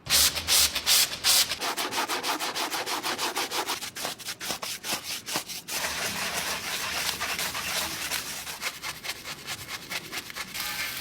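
Rotating brushes of an automatic car wash scrubbing against a car's body, a rapid, even swishing rhythm that starts suddenly.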